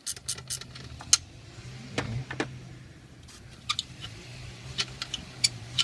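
A socket ratchet clicks quickly for about half a second, then separate sharp metal clicks and knocks follow as tools and bolts are handled on the alternator mounting. A steady low hum sits underneath.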